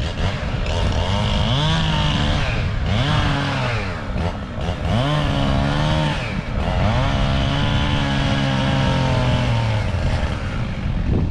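Two-stroke chainsaw revving up and held at high speed four times, dropping back toward idle in between, as in a cut being made.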